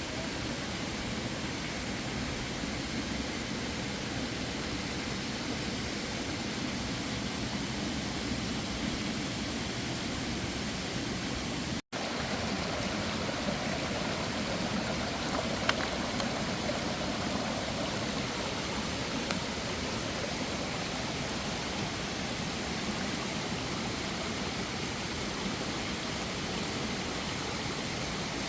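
Steady rushing of flowing water from a mountain stream, with a split-second gap about twelve seconds in.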